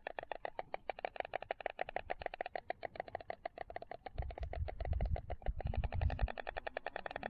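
White storks clattering their bills: a fast, dry rattle of about ten clacks a second that keeps going throughout. A low rumble, likely wind on the microphone, joins in about four seconds in and fades near six seconds.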